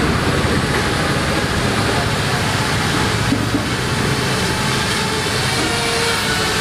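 Parrot Bebop 2 quadcopter in flight, its four propellers and motors running steadily with a constant rushing noise and a faint whine.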